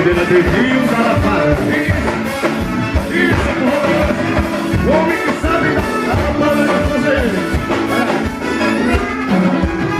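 Live forró band playing with drums, bass and singing, a steady dance beat carrying through.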